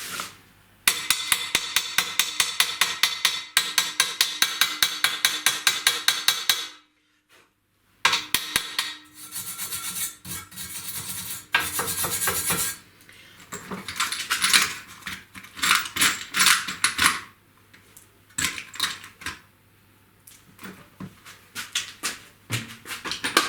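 Hand tools working the steel parts of an office chair: a fast run of sharp metal-on-metal clicks, about five a second, for several seconds. After a short pause come scraping and irregular metallic knocks.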